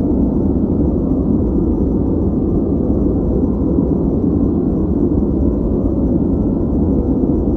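Steady, unbroken noise track, deep and rumbly with little hiss. Its level and colour don't change.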